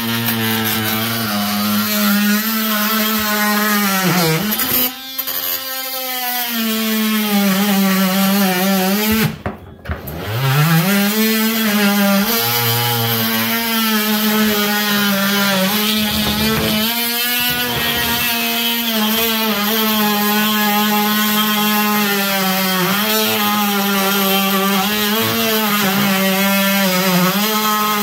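Electric power tool cutting out the grout around a loose ceramic floor tile, its motor running steadily with a grinding, rasping cut. It eases off briefly about four seconds in, then stops near ten seconds and winds back up to speed.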